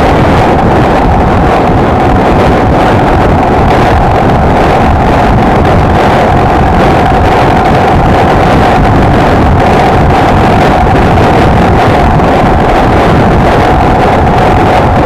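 Wind buffeting the microphone over a Honda XLR125R's single-cylinder four-stroke engine running at a steady cruising speed, with an even hum and no changes in pace.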